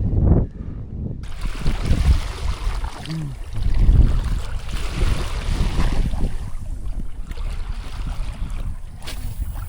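Strong wind rumbling on the microphone over water splashing around a kayak.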